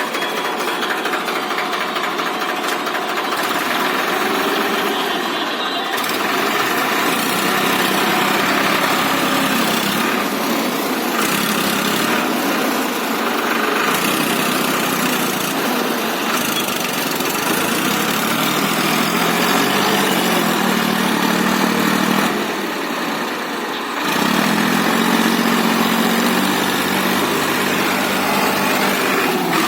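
Tractor's diesel engine running steadily, its pitch shifting up and down as the revs change, with a brief drop in level about three quarters of the way through.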